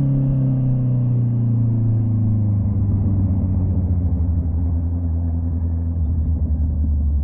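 Honda CB650R inline-four with an SC Project slip-on exhaust, on the move: the exhaust note falls in pitch as the revs drop over the first few seconds, then holds a steady low drone.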